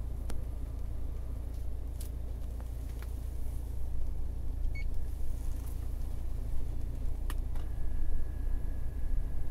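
Volkswagen engine idling, a steady low rumble heard from inside the cabin, with a few sharp clicks. A short beep comes near the middle, and a steady tone begins about three-quarters of the way through.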